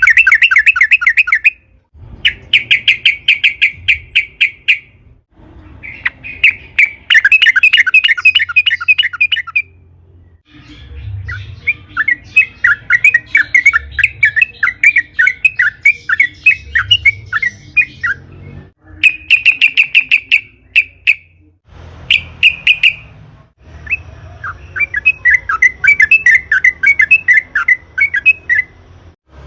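Yellow-vented bulbul singing: loud, fast runs of bubbling, repeated chattering notes in phrases one to three seconds long, broken by short pauses, over and over.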